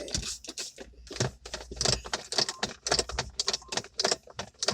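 Hand wiping and scrubbing car interior surfaces with a cloth: a quick, irregular run of rubbing scrapes, clicks and small rattles.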